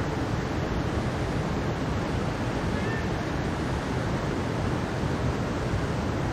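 Mountain stream water rushing steadily, an even, unbroken wash of sound heaviest in the low range.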